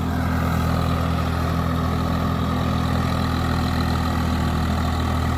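Swaraj 744 FE tractor's three-cylinder diesel engine running steadily at an even speed.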